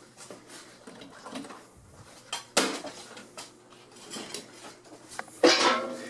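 Hard objects being handled and shifted about: scattered small clicks and knocks, with two louder clattering hits, about two and a half and five and a half seconds in.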